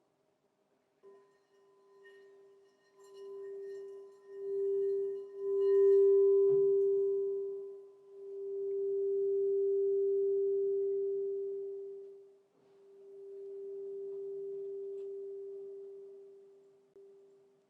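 Crystal singing bowl sounding one steady, pure low tone that swells and fades in several slow waves, with faint higher overtones early on and a soft tap about a second in.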